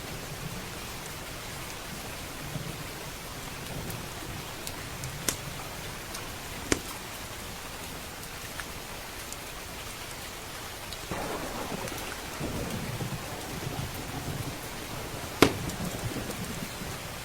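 Steady heavy rain, with a rolling rumble of thunder that swells about eleven seconds in. Three sharp pops from a crackling wood fire cut through it, the loudest near the end.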